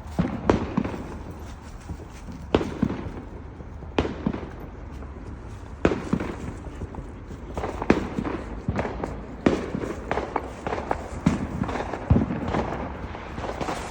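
Fireworks going off: a string of sharp bangs and cracks at irregular intervals, about one every second or two, over a steady low rumble.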